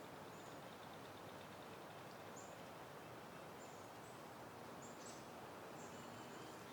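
Faint steady wind through foliage, with short high bird chirps scattered through it.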